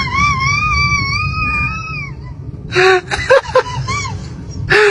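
A baby's cry: one long wavering wail lasting about two seconds, followed by shorter broken cries.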